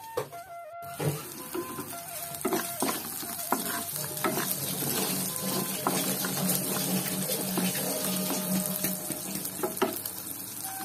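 Radish seed pods frying in a little oil in a wok, with a steady sizzle and occasional taps and scrapes of a wooden spatula stirring them. The gas is kept low so the pods cook soft without burning.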